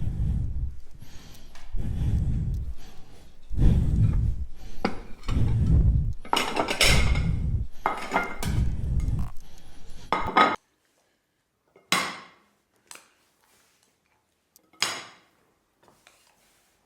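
Repeated clattering and thudding for about ten seconds that cuts off suddenly, followed by a few separate sharp knocks.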